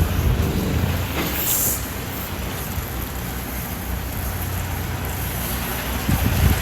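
Diesel semi-truck engine running at low speed as the rig reverses slowly, a steady low rumble mixed with wind noise; a brief hiss about a second and a half in.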